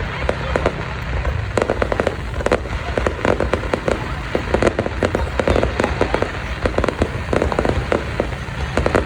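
Fireworks going off in a continuous barrage of bangs and crackles, many a second, over a steady low rumble.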